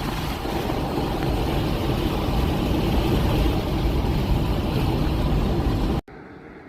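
Steady vehicle and road noise: a low rumble under a broad hiss, with no clear engine tone, cutting off suddenly near the end.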